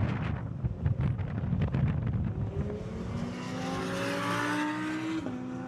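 Supercar engine under acceleration on a race track: after a low rumble, its note climbs steadily in pitch for a few seconds, then drops suddenly at an upshift near the end.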